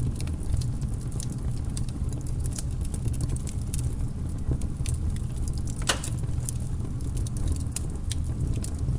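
Wood logs burning in a fireplace: a steady low rumble with scattered sharp crackles, and one louder pop about six seconds in.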